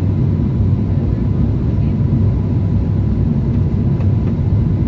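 Airbus A350-1000 airliner in flight, its engine and airflow noise heard inside the cabin as a steady low rumble with a faint, even high tone above it.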